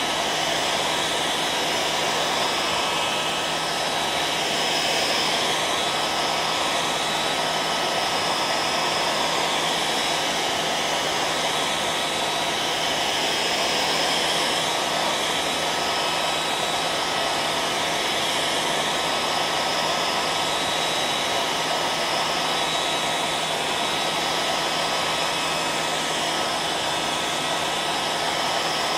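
Hairdryer running steadily: an even rush of blowing air with a faint steady motor hum and whine.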